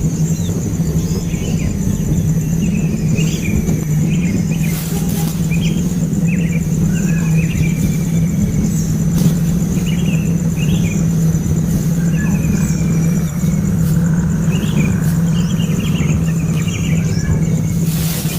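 Baby birds chirping over and over in short, falling chirps, over a loud, steady low hum.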